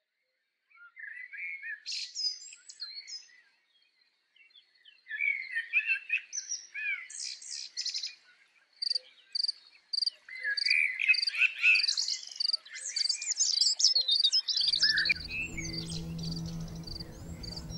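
Several birds singing and calling, a busy mix of chirps, trills and whistles, with a run of evenly repeated high chirps in the second half. A low steady hum comes in near the end.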